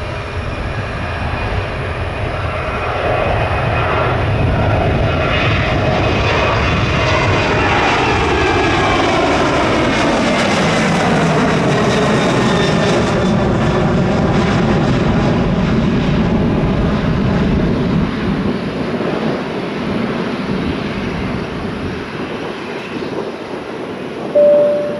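Jet aircraft engines passing close by: the noise builds over the first few seconds, holds loud with a whine that falls in pitch as the plane goes past, then slowly eases off. A short beep sounds at the very end.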